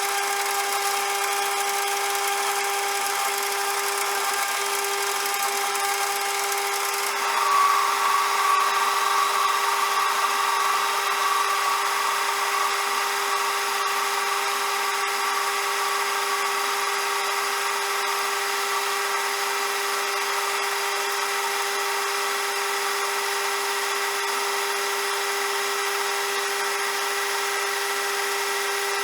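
CJM360 benchtop metal lathe running with a steady whine. About seven seconds in the sound changes: a higher tone comes in louder for several seconds, then settles back to a steady run.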